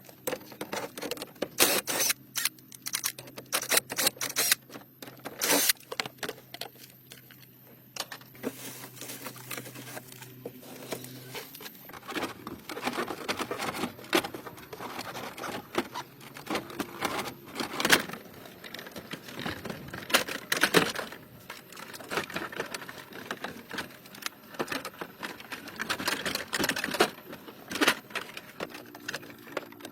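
Irregular clicks, taps and clinks, as of hand work on metal parts, with a faint steady hum that stops about eleven seconds in.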